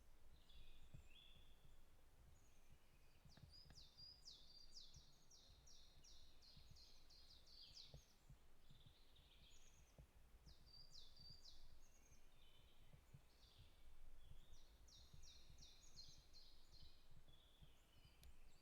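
Faint birdsong: a songbird sings a fast trill of many quick, repeated high notes, three times, over a low steady rumble.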